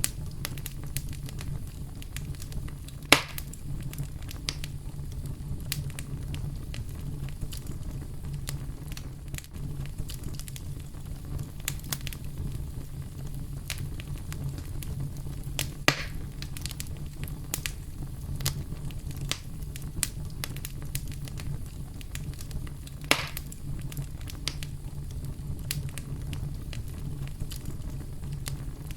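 Wood campfire crackling, with frequent small pops and three louder snaps about 3, 16 and 23 seconds in, over a steady low brown-noise rumble.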